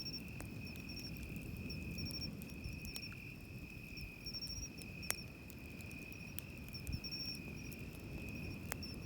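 Night insects singing: one continuous high trill with short repeated chirps above it. A few sharp crackles from a wood campfire pop out, about five seconds in and again near the end, over a low steady wash of surf.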